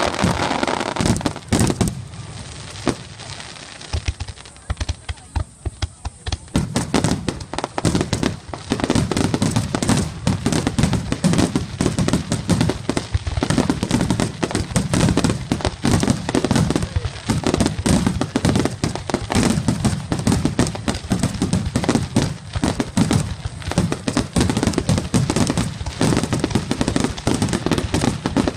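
Fireworks going off: bangs and crackling. After a quieter lull of a few seconds near the start, there is almost continuous rapid popping and crackling from about seven seconds in.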